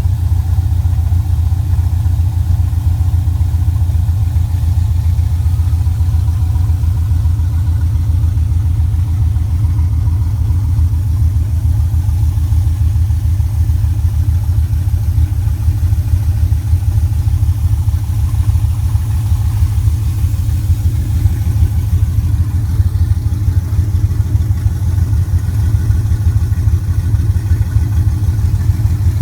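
LS-series V8 engine idling steadily, with a continuous low, even firing pulse.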